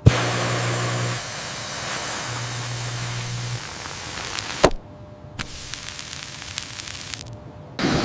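Hissing spray of a decontamination-solution sprayer, with a low hum in places. It starts and cuts off with a click about four and a half seconds in, and a fainter hiss follows.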